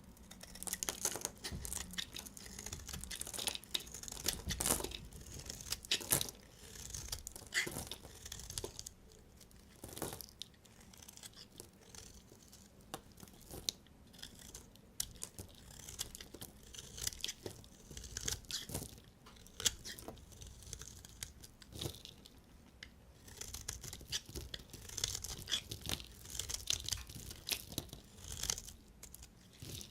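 Knife cutting through bars of dry soap: crisp, crackly crunching with many sharp clicks, coming in uneven strokes.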